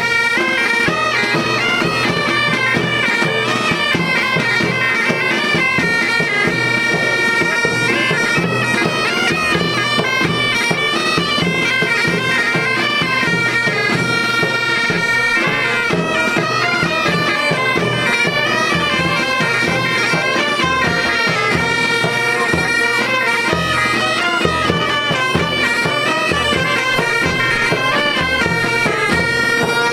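Bagpipe band playing: a steady drone under a continuous chanter melody.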